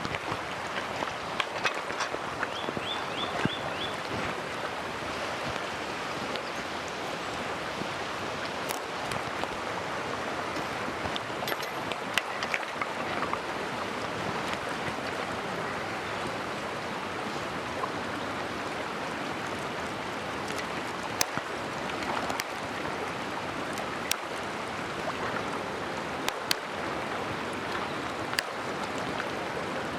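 Mountain stream flowing steadily, with scattered sharp clicks and a brief run of four high chirps about three seconds in.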